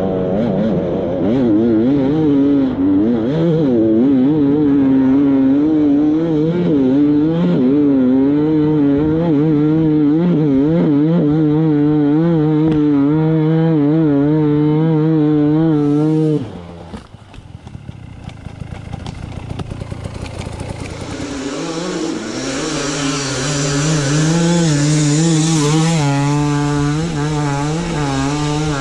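Dirt bike engine revving up and down under changing throttle during off-road riding. About two-thirds of the way in it drops away suddenly to a quieter, rougher running for a few seconds, then picks up again under load with more hiss.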